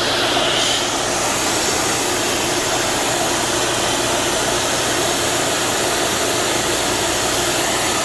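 Steady rushing noise of a fan or blower running in the workshop, even throughout with no strokes or breaks.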